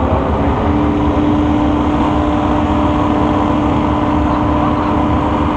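Drag race car engine running loud and rough, settling on one steady pitch about half a second in and holding it.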